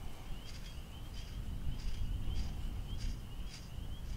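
Outdoor range ambience between shots: a low steady rumble with a bird chirping faintly in the background, about one chirp every half second.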